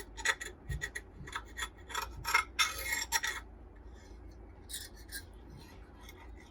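Scraping old dried dirt off the parts of a vintage bread slicer: a quick run of short, rasping strokes that stops about halfway through, followed by two more strokes a little later.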